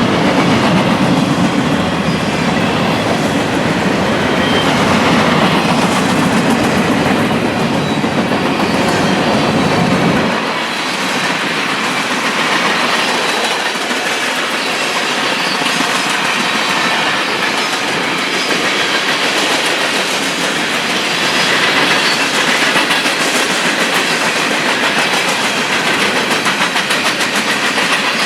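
A train passing close by, its steel wheels clattering rhythmically over the rail joints. A deep rumble under the clatter stops abruptly about ten seconds in, leaving the steady rattle of the cars rolling by.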